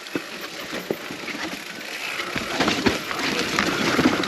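Mountain bike riding down a wet, rooty dirt trail: tyres on the muddy ground and the bike rattling and clattering over roots and bumps, busier and louder from about two seconds in.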